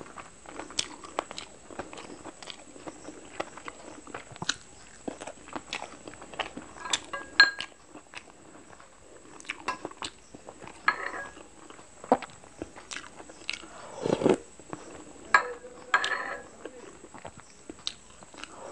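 Close-miked eating: wet chewing and lip smacking with a steady run of sharp mouth clicks, as soft steamed chicken momos dipped in chutney are chewed. A few louder, longer wet mouth sounds come about three-quarters of the way through.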